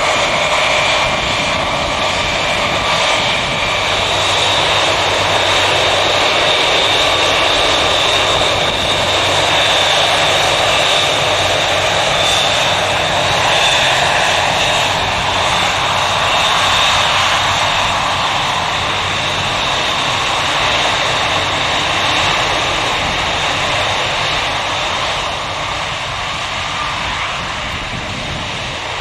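Douglas DC-8's Pratt & Whitney JT3D turbofans running loud, a high screaming whine in several steady tones over a rough rumble, slowly fading over the last ten seconds or so.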